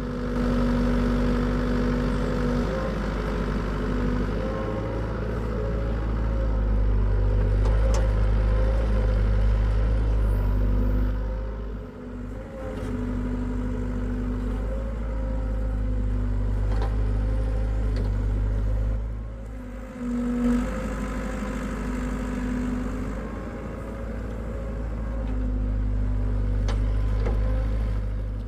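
Hitachi EX75UR excavator's diesel engine running under load while digging, its note rising and easing as the hydraulics work through each cycle. The engine drops back briefly about twelve seconds in and again around twenty seconds, with a few light clanks.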